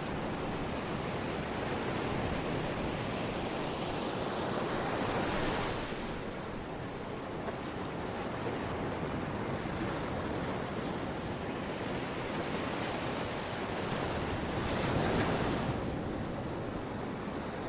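Sea waves breaking and washing up a beach: a continuous surf rush that swells louder twice, about five seconds in and again about fifteen seconds in.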